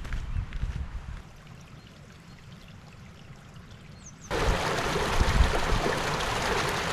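A low rumble drops away after about a second. About four seconds in, the steady rush of a stream in spate starts suddenly and holds.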